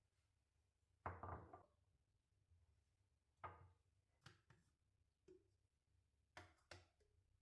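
Quiet knocks and clatters of kitchen things being handled and set down, about seven in all; the first, about a second in, is the loudest and rattles on for about half a second.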